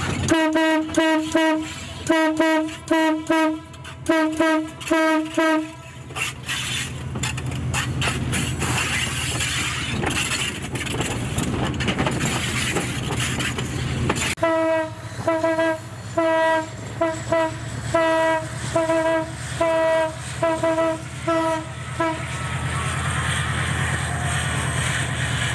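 Diesel passenger train's horn sounded in two long runs of short repeated blasts, about two a second, with the train's running rumble and rattle between and after them.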